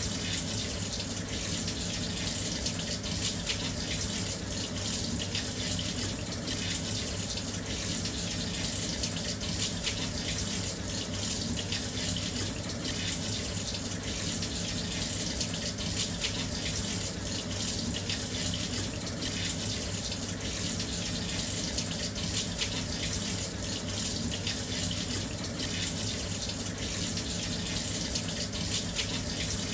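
Washing machine filling with water: a steady, even rush of water pouring into the drum.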